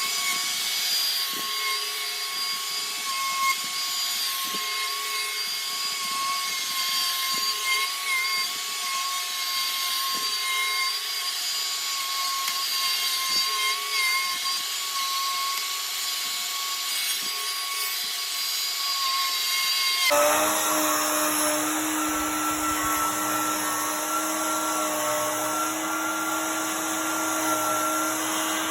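Bosch plunge router with a 1/2-inch Diablo bit running with a steady high whine as it cuts a circular hole in a cornhole board, with light knocks from the work now and then. About twenty seconds in, the whine drops sharply to a lower steady pitch.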